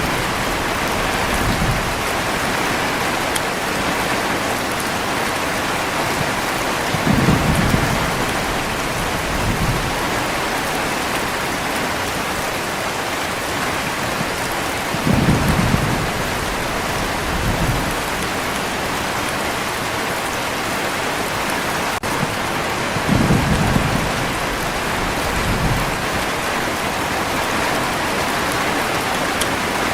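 Heavy rain falling steadily, with short low rumbles of thunder coming back at regular intervals about every eight seconds, each followed by a smaller rumble about two seconds later.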